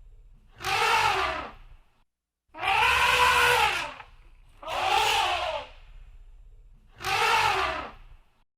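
Elephant trumpeting: four loud blasts in a row, each about a second long and rising then falling in pitch.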